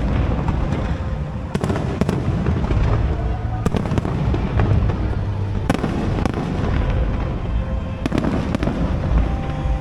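Aerial fireworks display: a continuous low rumble of bursts, with sharp bangs every couple of seconds, over music played along with the show.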